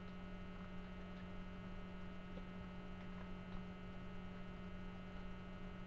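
Steady electrical mains hum, a low buzz with a row of higher overtones, picked up in the recording. A few faint ticks sound over it.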